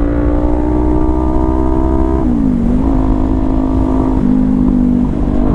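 Kawasaki Ninja 400's parallel-twin engine running steadily under way, over a low rushing noise. The engine note dips and picks back up a little after two seconds in, then drops slightly for about a second near the end.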